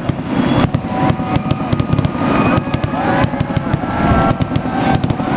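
Fireworks finale: a dense, continuous barrage of bangs and crackling, with drawn-out whistling tones over it from about a second in.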